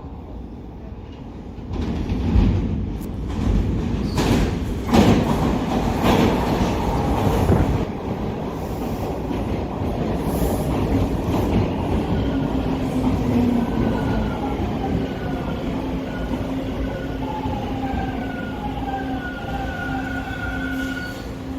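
TTC subway train running through the station: a loud rumble with wheels clattering over the rail joints for several seconds, then a steadier run as the traction motors whine in short tones that step down in pitch, as a train does when braking.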